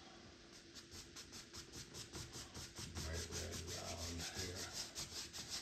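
Paintbrush scrubbing back and forth across a canvas to blend the wet sky colours, in quick even strokes about five a second. The strokes get louder about three seconds in.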